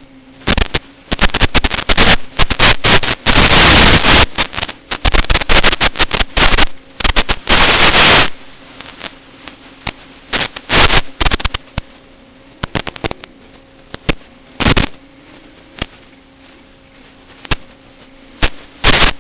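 Loud, distorted crackling and popping bursts that clip the recording, densest in the first half and then coming in short scattered pops, over a faint steady electrical hum.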